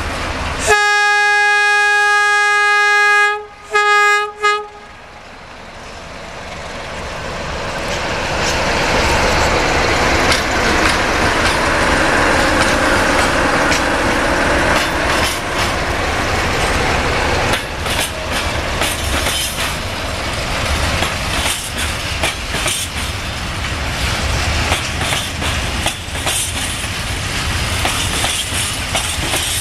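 An Electroputere LDE 060-DA diesel-electric locomotive sounds its horn, one long blast and then two short ones. Its Sulzer diesel engine then grows louder as it passes. After it comes the fast, steady clickety-clack of the freight wagons' wheels over the rail joints.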